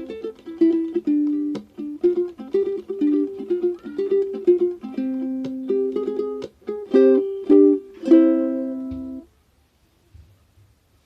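Background music: a plucked-string melody of short notes that stops about two seconds before the end, leaving a brief quiet gap.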